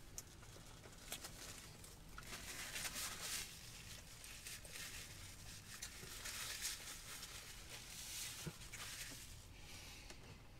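Faint close-up chewing of a mouthful of pulled pork sandwich on a soft bun, coming in a few spells, with light rustling of its paper wrapper.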